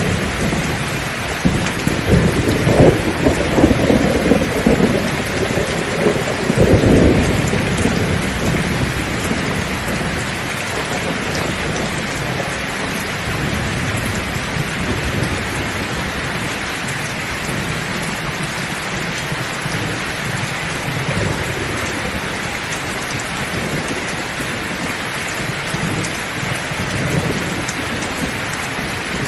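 Heavy rain pouring steadily. Low rumbles of thunder swell during the first several seconds and then fade into the even hiss of the downpour.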